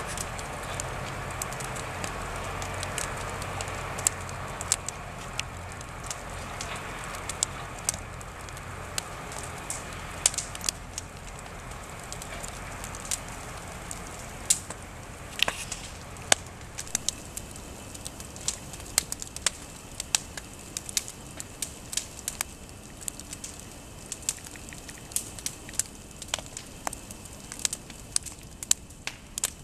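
Wood campfire crackling, with irregular sharp pops and snaps throughout over a hissing rush that eases off over the first half.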